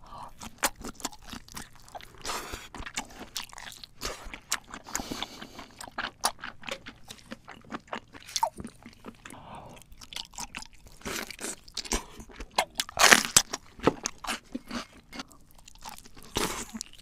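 Close-miked chewing and crunching as large red prawns are eaten, a dense run of wet mouth clicks and crackles. The loudest crunching comes about thirteen seconds in.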